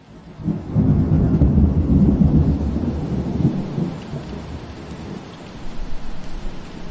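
Steady rain with a deep roll of thunder. The rain fades in at the start, the rumble builds about half a second in, is loudest for the next three seconds, then dies away under the rain.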